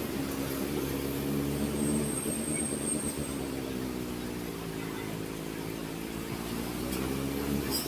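Kawasaki ZX-4RR's inline-four engine through an SC Project exhaust, running at a fairly steady pitch while riding. The revs ease off a little midway and build again near the end.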